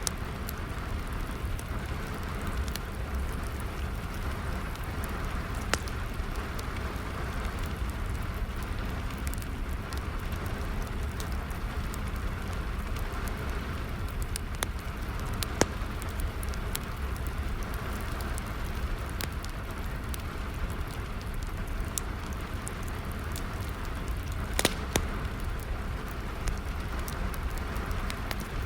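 Steady rainfall with a wood fire crackling over it: scattered sharp pops and snaps, a louder pop about two-thirds of the way in.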